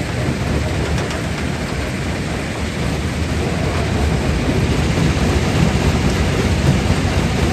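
Continuous loud rumbling din of a stone-crushing plant: a jaw crusher breaking rock, with heavy machinery running. It grows a little louder over the last few seconds.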